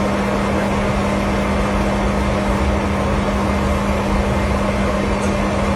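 Loud, steady mechanical drone with a constant low hum running through it, unchanging throughout.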